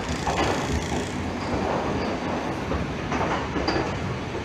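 Passenger train carriage running on the track, heard from inside: a steady rumble and rattle of the wheels and coach, with a few brief louder knocks.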